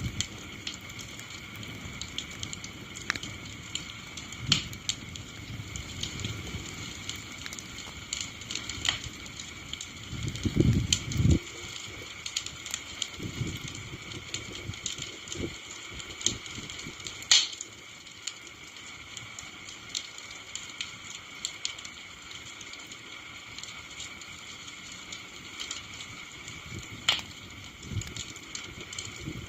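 Wood campfire burning with a steady hiss of flame and irregular crackles and pops from the burning wood. The loudest snap comes a little past the middle, and there are brief low rumbles about a third of the way in.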